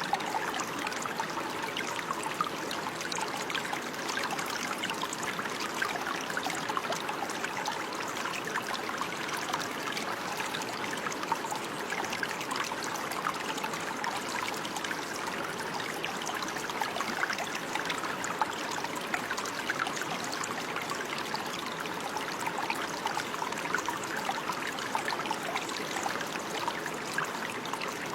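Running water trickling and babbling steadily, like a small stream over stones, with many small splashes and drips and no change in flow.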